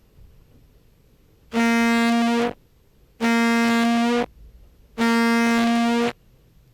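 Contrabass clarinet sample played through a distorting, heavily compressed effects chain: three tongued notes of the same pitch, each about a second long and starting and stopping abruptly. The key click and the tonguing attack stay audible, the compression not smoothing them out.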